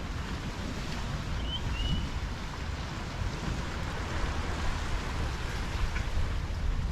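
Waves washing and surf on the harbor beach, with a low rumble of wind on the microphone. A bird gives two short high chirps about one and a half seconds in.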